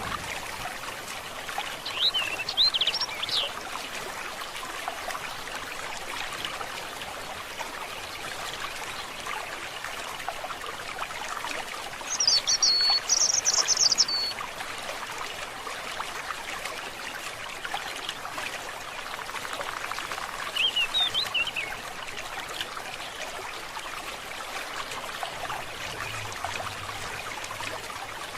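Steady trickle of a forest stream, with a bird chirping three times: briefly about two seconds in, louder and longer around the middle, and again about two-thirds of the way through.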